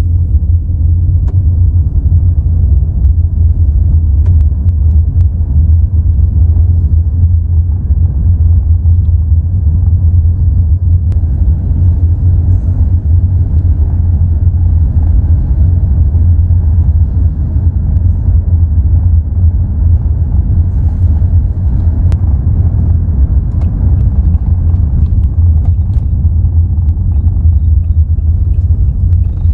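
Loud, steady low rumble of strong wind buffeting the microphone, flickering rapidly in level with no clear pitch.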